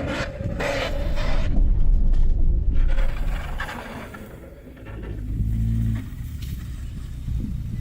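Car driving over rough ground: a heavy low rumble with scraping noise, loudest in the first three seconds, then quieter, with a brief low swell about five seconds in.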